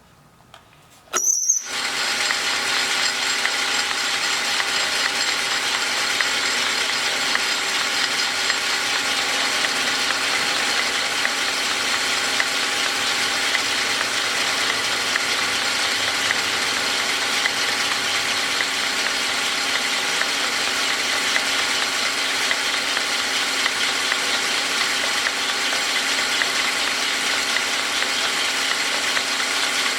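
Metal lathe starting up about a second and a half in and then running steadily, its gears whirring with a whine of several steady tones, while it takes the last finishing pass on a welded-up shaft.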